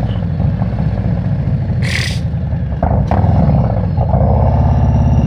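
Harley-Davidson motorcycle's V-twin engine running on the road, its pitch rising and falling with the throttle. A short burst of hiss comes about two seconds in.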